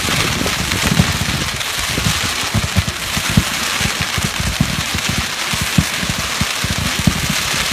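Fireworks going off: a steady crackling hiss with many irregular low pops and bangs, a few standing out sharper than the rest.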